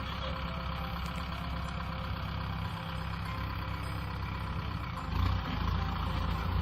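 Kubota M6040 SU tractor's diesel engine running steadily, growing louder about five seconds in.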